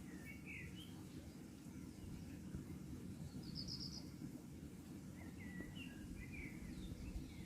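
Small birds chirping in short calls, with a quick run of about six high notes about halfway through, over a steady low background rumble.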